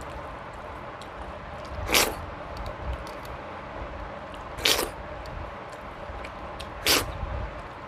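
Close-miked eating sounds: small wet clicks of chewing throughout, with three louder short noisy bursts of mouth noise about two, four and a half, and seven seconds in.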